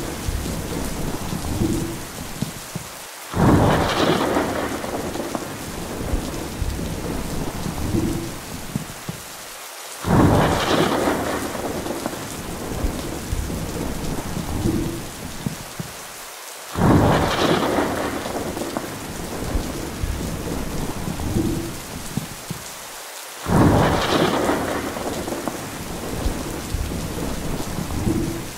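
Steady rain with a sudden loud crashing surge about every six and a half seconds, four times, each fading over a few seconds and each preceded by a brief dropout, repeating like a short loop.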